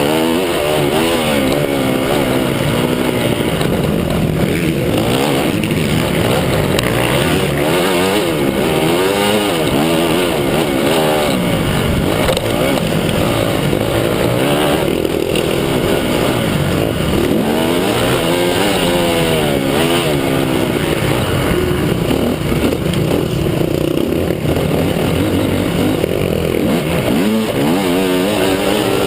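Motocross bike engines running hard, their pitch rising and falling again and again as the riders accelerate and shift through the gears.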